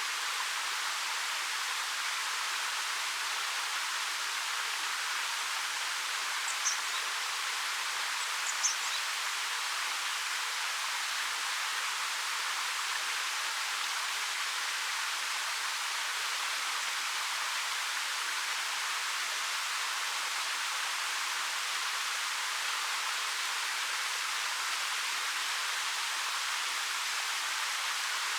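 Waterfall rushing steadily. Two brief high bird chirps come about seven and nine seconds in.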